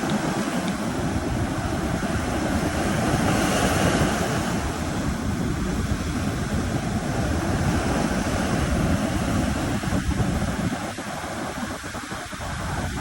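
Sea surf washing onto a beach in a continuous rush, swelling a few seconds in, with wind buffeting the microphone.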